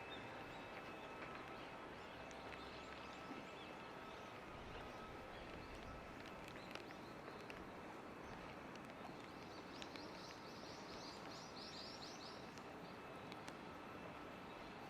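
Steady hiss of falling rain with scattered drips. About ten seconds in, a bird gives a quick run of high chirps lasting a couple of seconds.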